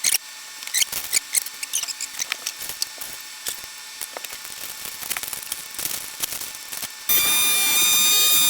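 Plastic vacuum-seal bag crinkling and crackling as a chicken is worked into it. About seven seconds in, a small food-saver vacuum pump starts with a steady whine.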